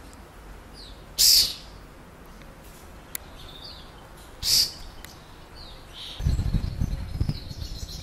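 Small songbird giving two short, harsh calls, about a second in and again about four and a half seconds in, with fainter chirps between them. Low rumbling on the microphone starts about six seconds in.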